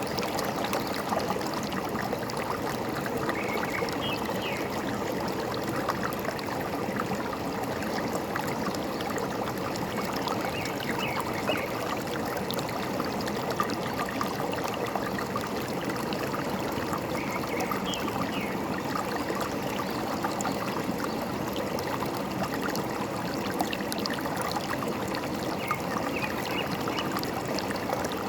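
Forest stream babbling steadily over stones, with a few faint, brief bird chirps every several seconds.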